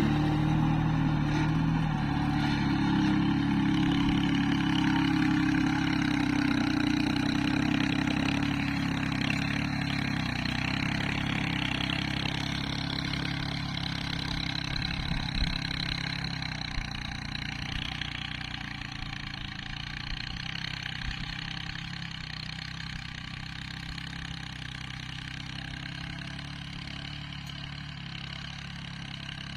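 Tractor engine running steadily, growing gradually quieter over the whole stretch.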